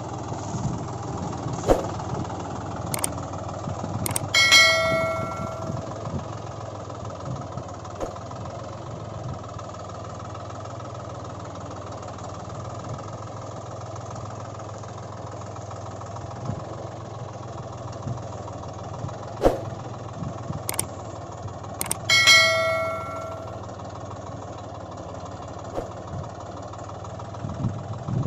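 A steady low engine-like hum with scattered sharp clicks, and twice a bell-like chime that rings out and dies away over about a second and a half.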